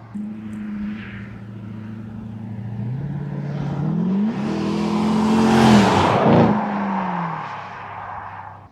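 Jaguar XK8's V8 accelerating past. The engine note rises in pitch, is loudest about six seconds in as the car goes by, then drops in pitch and fades before cutting off abruptly.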